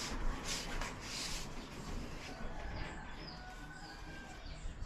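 Faint bird chirps in the background: short high calls and a thin whistle-like note. A few soft rustling noises in the first second and a half.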